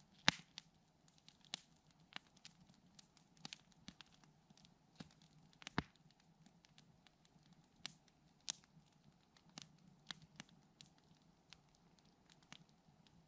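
Wood campfire crackling: irregular sharp pops and snaps at uneven intervals, a few of them louder than the rest.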